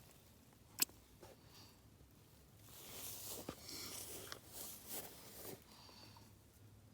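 Faint rustling and handling noises, with one sharp click just under a second in and a few light ticks around the middle.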